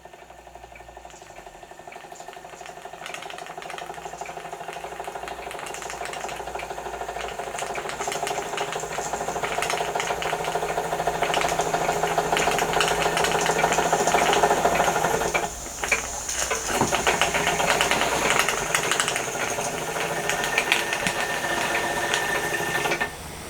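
Wilesco D455 model steam engine running steadily, its cylinder exhausting in fast, even beats that grow louder over the first half or so, with a brief drop about two-thirds of the way through.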